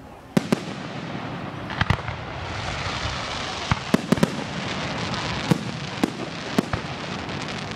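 Aerial fireworks bursting overhead: a string of sharp bangs, several close together about four seconds in, over a crackling hiss that builds from about two seconds in.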